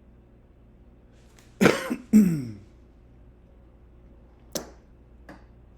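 A man coughs twice in quick succession, two short harsh coughs each trailing off with a falling voiced tone. A few seconds later come two sharp clicks, like a computer mouse clicking through photos.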